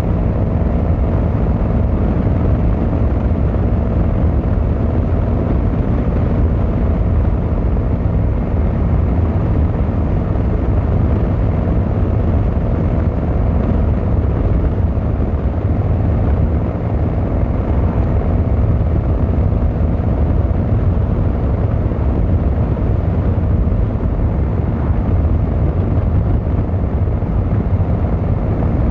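Yamaha XVZ1300 Royal Star's V4 engine and exhaust running steadily under way, a deep, even drone with no big revs or sudden changes.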